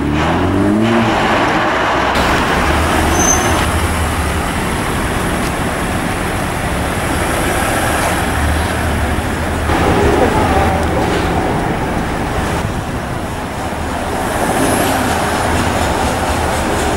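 Car engines at low speed with road noise. In the first second a BMW Alpina B3 BiTurbo's twin-turbo straight-six rises and falls in pitch as it pulls away. Then a black modified Range Rover's engine runs with a steady low hum as it drives up slowly and stops.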